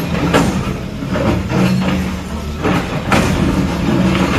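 Heavy demolition machine's engine running steadily, with repeated knocks and clatter over it.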